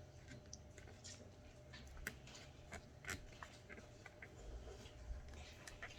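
Faint eating sounds: scattered small clicks and ticks of chewing and utensil handling, over a low steady hum.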